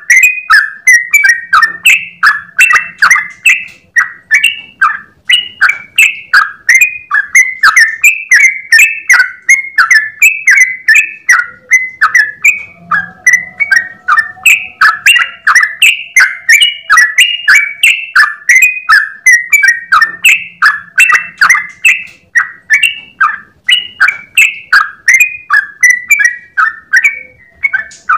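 Yellow-vented bulbul (trucukan) singing its rapid continuous 'ropel' song: an unbroken run of short bubbling notes, about three to four a second, with no pause.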